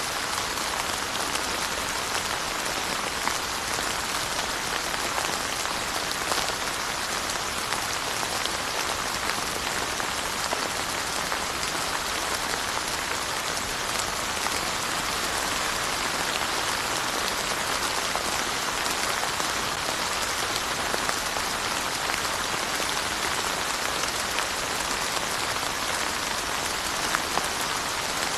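Steady, even rainfall, with scattered individual drops pattering on surfaces.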